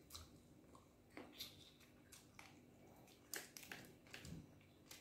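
Faint mouth sounds of someone biting and chewing a piece of meat, a scatter of short clicks, with a few louder ones bunched together a little past halfway.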